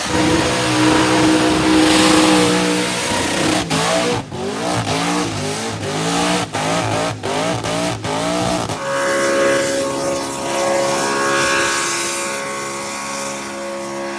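An engine held at a steady note, then revved up and down in quick repeated swoops. About two-thirds of the way through it cuts abruptly to a steady engine drone at a fixed pitch.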